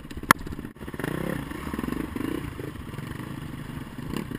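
Trail bike engine running and revving unevenly, with a sharp click about a third of a second in.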